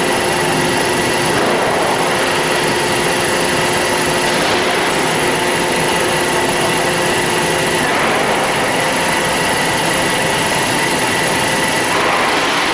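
Band saw running steadily, a loud even mechanical noise with several steady tones in it, with its coolant water not yet turned on.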